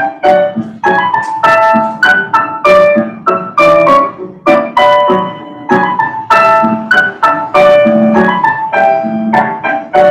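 Solo piano playing ballet class accompaniment: a steady run of struck notes and chords at a moderate, even pulse.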